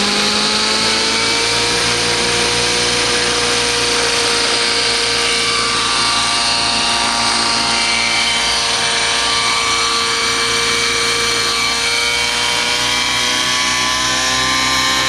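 Radio-controlled nitro helicopter's O.S. 90 glow engine running through a GP-Exhaust tuned pipe, with a steady high buzzing note that climbs in pitch over the first couple of seconds and then holds.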